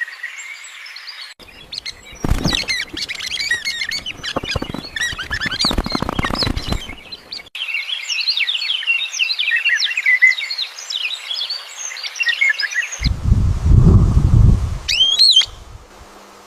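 Small birds chirping in quick, overlapping high calls, mixed with bursts of low noise. A single sharp rising call comes near the end.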